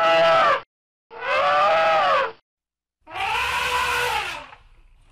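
Elephant trumpeting: three loud calls about a second apart, each rising then falling in pitch, the last one the longest.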